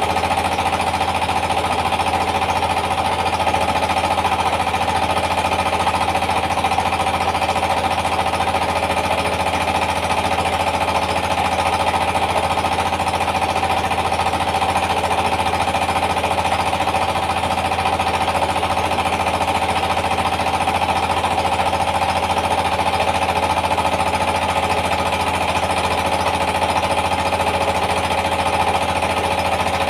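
Rice mill driven by a Yanmar TS230 single-cylinder diesel engine, running steadily under load: a fast, even pounding of the engine with a constant hum from the mill.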